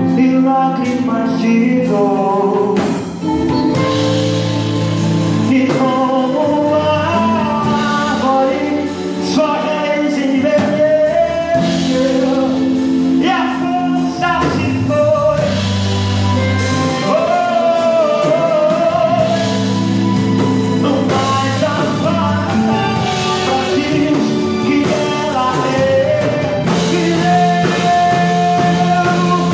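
A gospel worship song performed live: a solo voice singing a slow melody over band accompaniment with steady bass notes.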